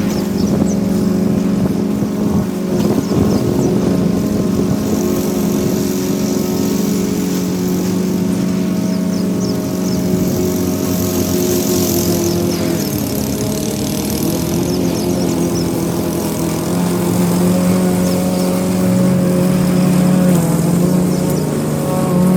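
Toro Smart Stow self-propelled gas push mower engine running steadily while cutting tall grass, its pitch dipping briefly about halfway through.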